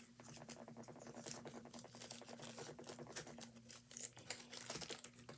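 Plastic zip-top baggie crinkling and tearing as its top is ripped off, a quick run of small crackles, over a faint steady hum.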